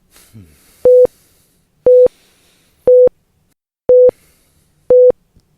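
Hospital patient heart monitor beeping steadily: a short single-pitched beep about once a second.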